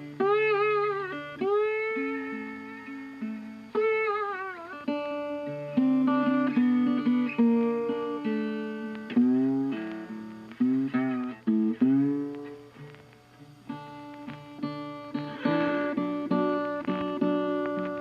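Background music: acoustic guitar playing a melody of plucked notes, with bent and sliding notes in the opening seconds.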